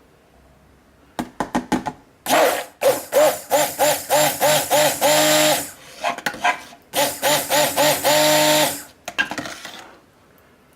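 Stick blender mixing soap batter, run in short pulses and then held on, in two bouts, with a few clicks just before it starts.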